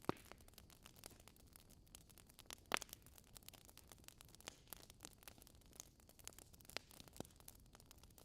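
Wood fire crackling in a fireplace: scattered sharp pops and snaps from burning logs over a faint hiss, with the loudest pops just after the start and a little under three seconds in.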